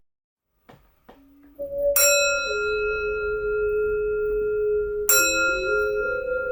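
Singing bowl struck twice, about three seconds apart, each strike ringing on with long, steady overtones.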